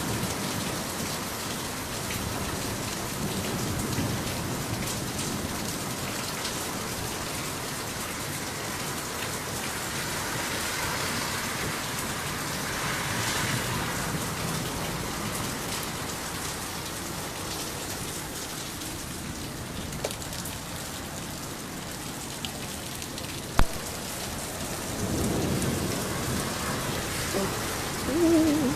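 Heavy rain pouring steadily, with a low rumble of thunder swelling about three-quarters of the way through and a single sharp click shortly before it.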